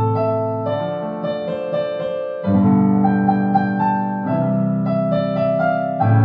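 Solo piano playing a slow melody over held bass chords, with a loud new bass chord struck about two and a half seconds in.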